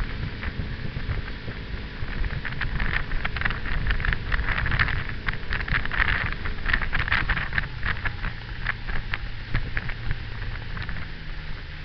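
Motorboat under way: the engine runs as a low rumble under wind buffeting the microphone, with a few seconds of crackling water spatter in the middle.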